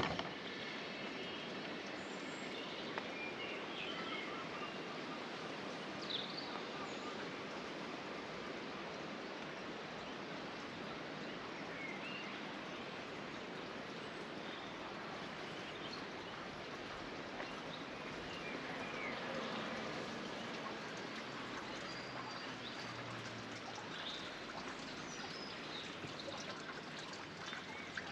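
Stream water running steadily, with a few faint bird chirps scattered through it.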